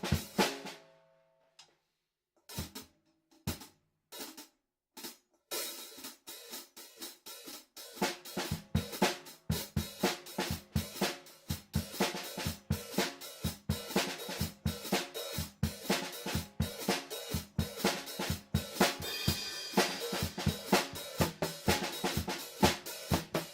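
Acoustic drum kit played freely, heard through a stereo overhead pair about 2 m away with no processing. A ringing decay gives way to a short pause and a few scattered hits. The playing picks up about five seconds in and builds into a busy groove of snare, bass drum and cymbals from about eight seconds on.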